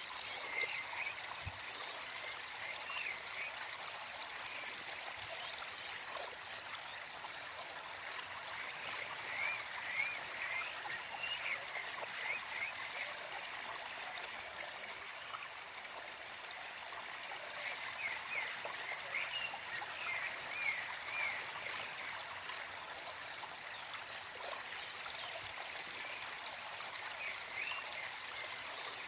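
Gentle forest stream flowing and trickling steadily, with a small bird singing over it in bouts of quick chirping notes that come every several seconds.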